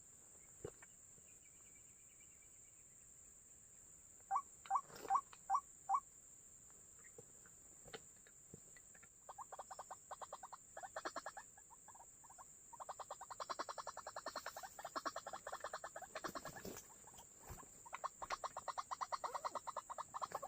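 White-breasted waterhen calling: five short clipped notes about four seconds in, then from about nine seconds long runs of rapid stuttering notes, with brief breaks between the runs.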